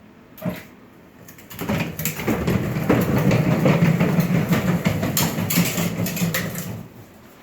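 Battery-powered ride-on toy truck driving for about five seconds: its electric motor hums steadily while the plastic wheels rattle and crunch over the ground, after a single click about half a second in.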